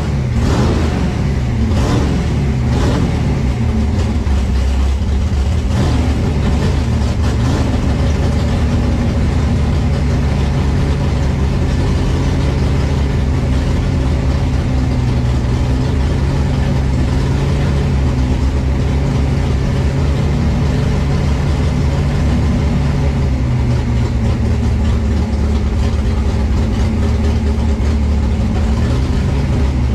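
Engine of a 1955 Chevrolet gasser drag car heard from inside its cabin, blipped in several quick revs during the first few seconds, then idling steadily.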